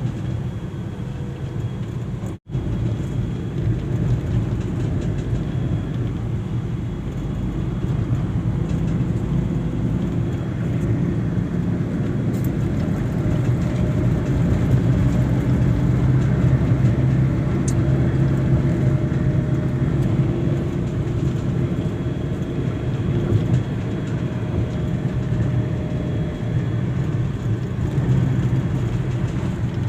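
Steady vehicle engine and road noise with a low hum, broken by a sudden instant of silence about two and a half seconds in.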